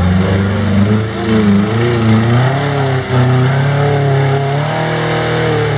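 Rock crawler engine revving under throttle, its pitch rising and falling as the throttle is worked.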